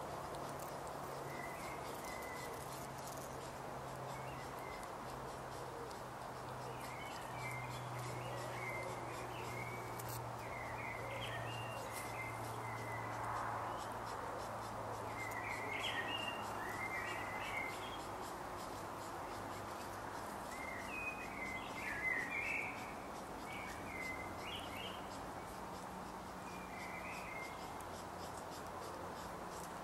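Birds chirping in short phrases of song every few seconds, over a steady low hum and faint background noise.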